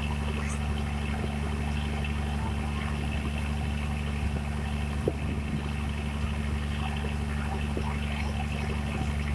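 Boat engine running steadily, a constant low drone with a faint knock about five seconds in.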